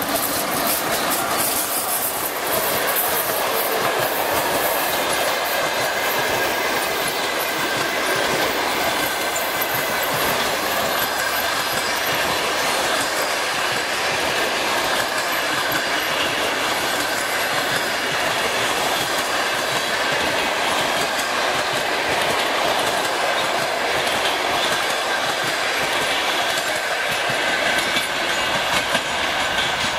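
Moscow–Kharkiv passenger train running on the rails: a steady rush of wheel and rail noise with clickety-clack and a faint high whine.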